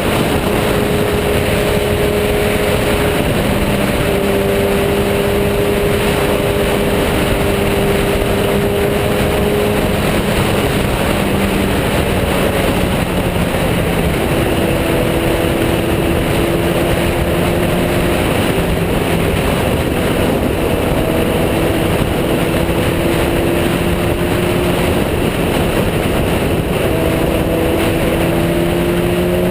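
Motorcycle engine pulling at a fairly steady cruising speed under a constant rush of wind and road noise. The engine note sags a little midway and climbs again near the end.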